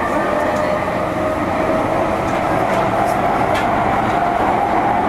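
JR E231-series electric train running underground, heard from inside the car. The traction-motor whine rises slowly in pitch as the train gathers speed, over a steady running rumble with a few faint wheel clicks.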